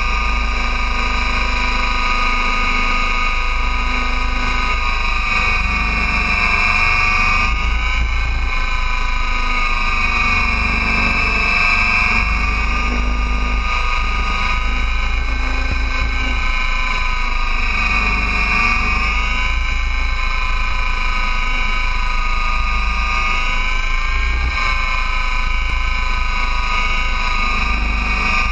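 Align T-Rex 800 RC helicopter in flight: a steady high whine from the rotor head and drivetrain that dips and rises in pitch every few seconds as it manoeuvres. Wind rumbles on the microphone underneath.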